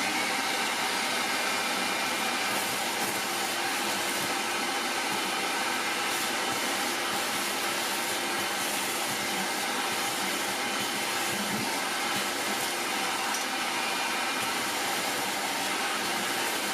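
Vacmaster VQ607SFD stainless steel wet/dry shop vacuum running steadily: an even rush of air with a steady motor whine.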